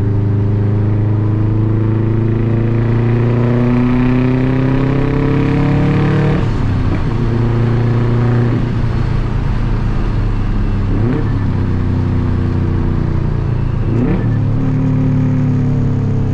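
2004 Subaru Impreza WRX STI's turbocharged flat-four with a loud aftermarket catback exhaust, accelerating with its pitch rising for about six seconds, then dropping sharply at an upshift. After that it runs on more steadily, with the note briefly breaking about three more times.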